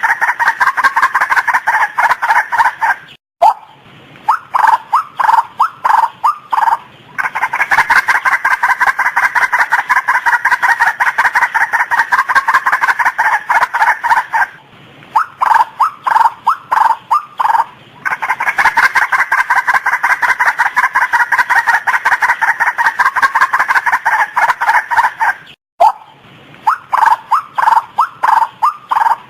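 Female white-breasted waterhen calling: long runs of fast, repeated croaking notes, broken three times by a few seconds of slower, spaced notes. The same sequence comes round about every eleven seconds.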